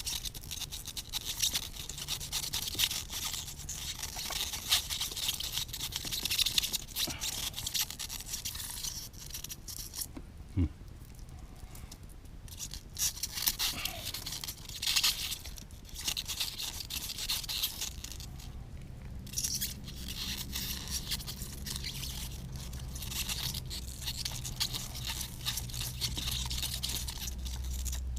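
Irregular scraping and rustling of antenna cables being pushed and pulled through a hole and worked down into a cabinet, with a few louder scrapes.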